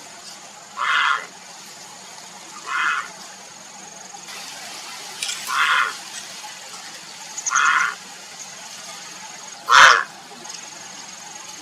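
Grey heron giving five short, harsh, hoarse calls, each about half a second long and spaced one to two seconds apart, the last the loudest.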